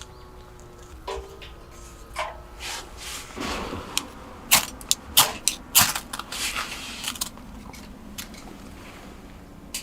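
Scattered sharp clicks and knocks of things being handled, thickest between about four and seven seconds in.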